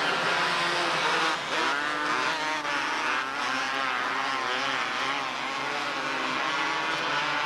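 Several small race-car engines running together on the track, their pitches rising and falling in overlapping waves as the cars accelerate and back off.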